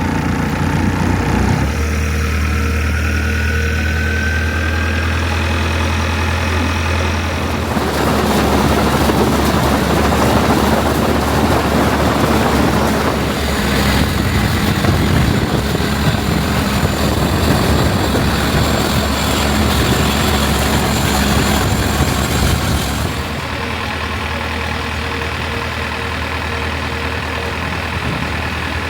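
An engine running steadily with a low hum. For about a quarter of a minute in the middle it is joined by a louder rushing noise, then it settles back to the steady hum.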